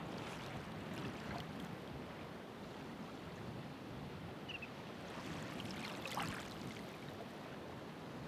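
Ocean waves washing onto the shore: a steady rush of surf, with a wave breaking and fizzing more loudly about six seconds in.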